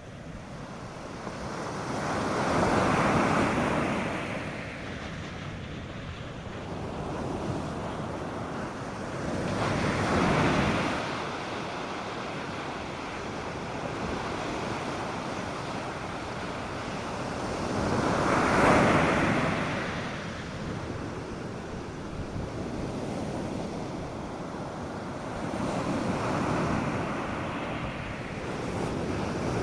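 North Sea surf breaking on a sandy beach: waves swell up and wash in roughly every eight seconds, four times, the third the loudest, over a steady rush of water, with some wind on the microphone.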